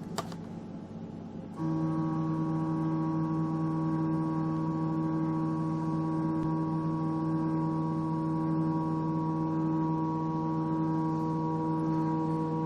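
A click near the start, then the stepper motor driving the EMCO Compact 5 lathe carriage along the Z axis starts about a second and a half in and runs with a steady, even whine.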